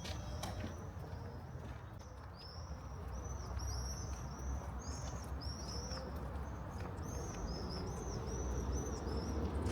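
Small birds chirping: fast series of short, high arched calls starting about two and a half seconds in, over a low steady rumble.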